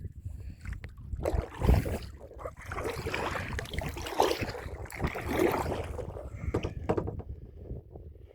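Kayak paddle splashing in river water, in several uneven strokes.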